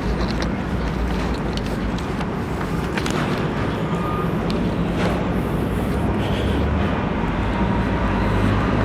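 Steady low rumble and hiss of airport ground noise while boarding an airliner, with a few light clicks about three and five seconds in.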